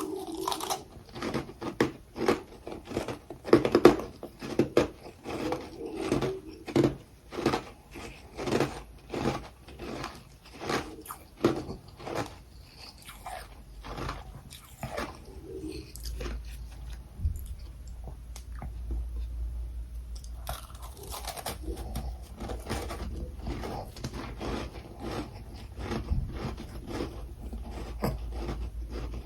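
A person biting and chewing freezer frost and crushed ice, with loud, crisp crunches about once or twice a second at first, then quicker, softer crunching as the ice is chewed down.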